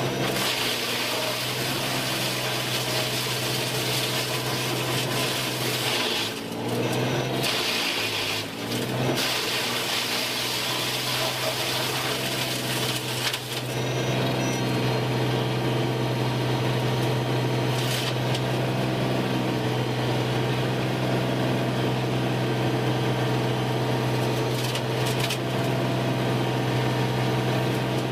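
Woodworking machinery running steadily with a constant low hum and a dense mechanical rush, dipping briefly a few times in the first half.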